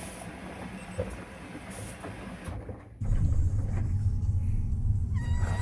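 Washing machine running with a steady low rumble from its drum, which jumps to a much louder, deeper rumble about three seconds in.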